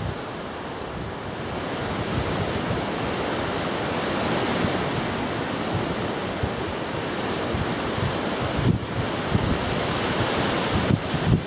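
Strong gusty wind buffeting the microphone: a loud, steady rushing with irregular low rumbles as gusts hit.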